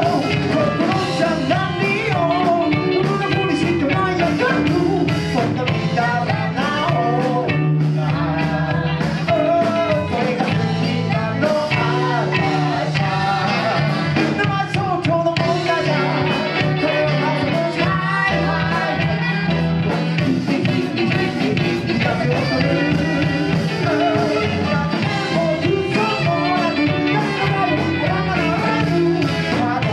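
A live band playing an upbeat boogie-style rock-and-roll song, with a singer over a steady bass line.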